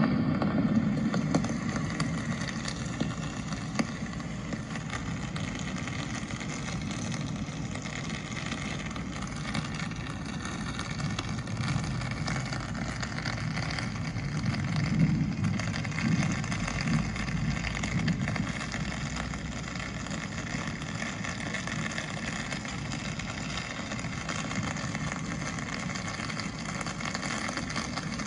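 Rainy city street ambience: a steady hiss with a low traffic rumble. The rumble is loudest at the start and fades over the first few seconds, then swells again around the middle.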